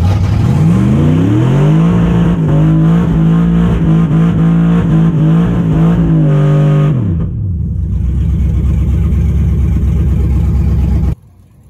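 Drag-race car engine making a full-throttle pass. Its pitch climbs over the first two seconds and holds high, then drops sharply about seven seconds in as it comes off the throttle, and a loud rough rumble follows. The sound cuts off abruptly near the end.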